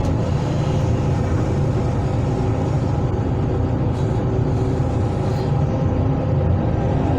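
Hydraulic excavator's diesel engine running steadily, a continuous low drone.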